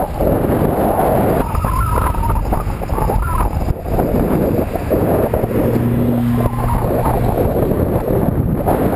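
Wind buffeting the microphone on a moving bicycle, over the noise of road traffic. A low steady hum shows up for about a second and a half just past the middle.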